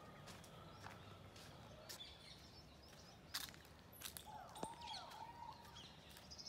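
Quiet garden ambience with several birds chirping and calling here and there, strongest about two-thirds of the way in. A few soft, irregular clicks, as of footsteps on a paved path, are mixed in.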